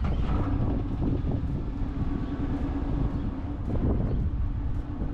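Dodge Challenger engine idling steadily.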